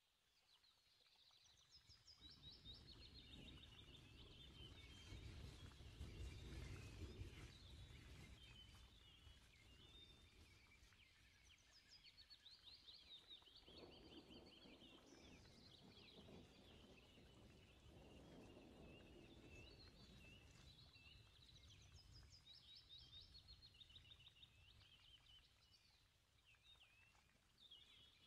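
Faint small birds chirping in quick repeated calls throughout, over a low background rumble that swells for much of the time.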